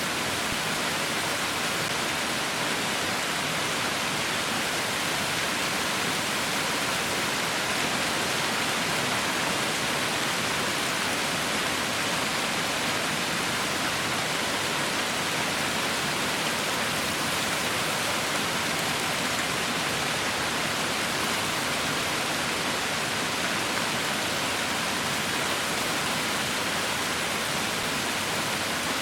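Heavy rain falling in a steady, even hiss, with no single drops, thunder or changes standing out.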